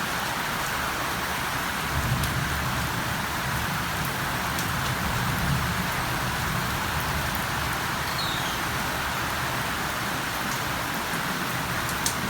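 Steady rain falling, with scattered sharper drop ticks. A low rumble comes in about two seconds in and fades a few seconds later.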